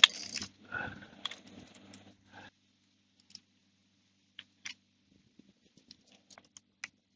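Saw chain clicking and clinking as it is handled and fitted around the chainsaw's drive sprocket and onto the bar. A sharp click at the start is followed by a busy clatter for about two and a half seconds, then scattered light clicks.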